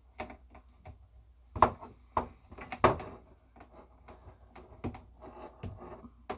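Handling clatter as the power cord of a countertop dishwasher is uncoiled: a run of sharp clicks and knocks, with the two loudest about one and a half and three seconds in.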